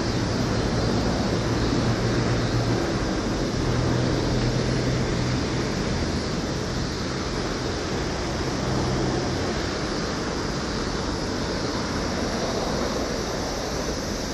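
Steady rush of flowing river water. A low steady hum sits under it and fades out about nine seconds in.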